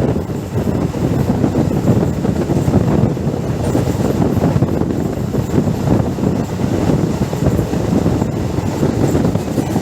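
Indian Railways passenger train running along the track: a loud, steady rumble of the coach and its wheels on the rails.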